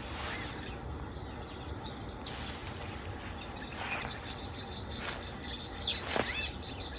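Small birds chirping: short arching chirps and a quick run of high notes in the second half, over a steady low rumble.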